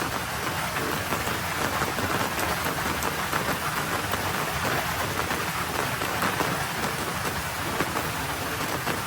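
Light spitting rain falling on a road: a steady, even hiss of many small drops landing on the surface.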